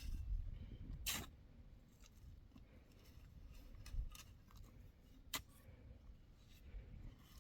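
Faint scrapes and clicks: a scrape about a second in, a dull knock near four seconds and a sharp click a little after five, over a low rumble.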